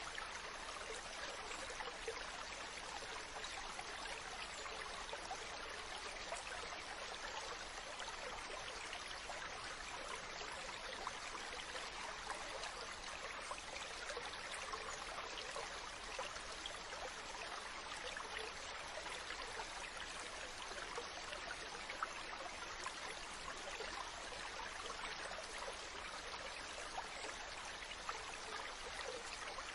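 Mountain stream running steadily: a continuous rush of water with fine splashing and trickling over rocks.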